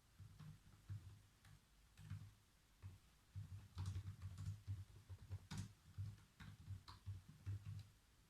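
Faint typing on a computer keyboard: a few scattered keystrokes, then a quicker, uneven run of key presses from about three and a half seconds in.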